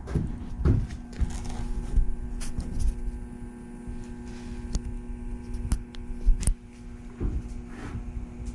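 Steady electrical hum, a few even tones, with a few light clicks and knocks.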